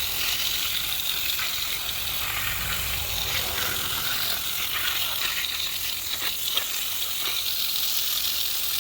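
Steady hiss of water spraying from a garden hose fed with pumped rainwater, with a few faint ticks.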